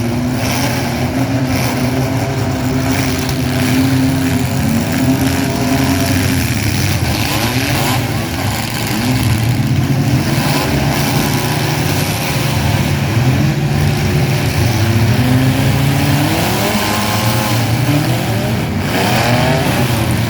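Mini truck engines running, with several revving up and down in overlapping rising and falling pitches over a steady low engine drone.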